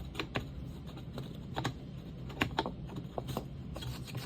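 Light, irregular clicks and taps of small metal and rubber nailer parts being handled, as an O-ring is worked onto the pneumatic nailer's piston. A low steady hum runs underneath.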